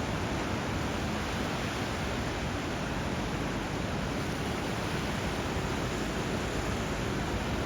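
Steady, unbroken rush of water where a river's flow meets the sea's waves.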